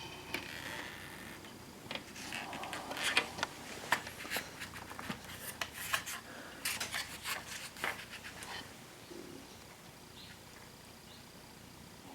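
Hard plastic parts of a wall-mounted air conditioner being handled during disassembly: a run of small clicks, knocks and rustles for several seconds, then quieter for the last few seconds.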